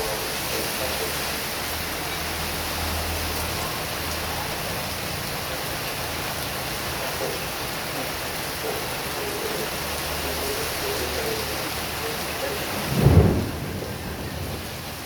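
Heavy rain falling steadily as a dense, even hiss, with a low rumble that comes and goes underneath. Near the end a short, loud low thump stands out, and the rain sounds duller for a moment after it.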